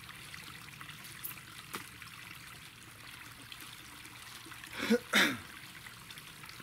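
Water steadily trickling and running at a small clay dam that is leaking. About five seconds in, two short loud sounds with falling pitch cut in over it.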